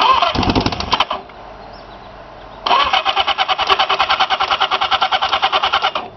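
1980 Suzuki motorcycle engine cranked over by its starter with ether sprayed into the intake hoses: a short burst, then about three seconds of steady cranking at about ten pulses a second. It tries to fire a little but does not catch.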